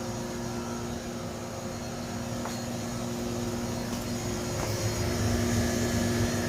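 GRAND GW-02 side-dish display refrigerator's refrigeration unit running with a steady hum and a low rumble, getting somewhat louder about five seconds in. It keeps running although its controller is switched off, a fault that fits the unit's complaint of freezing the food.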